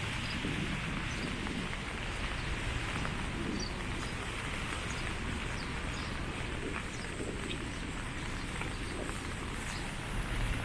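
Steady rain, an even hiss with scattered ticks of single drops and a low rumble underneath.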